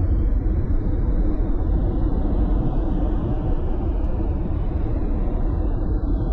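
Steady road noise of a car driving, heard inside the cabin: a low, even rumble of tyres and engine with no sudden events.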